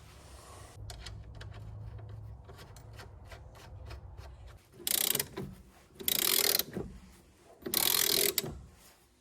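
A ratchet clicking quickly while bolts are worked on a shock absorber mount. It is followed by three loud, short bursts of tool noise, each about half a second long and a second or so apart.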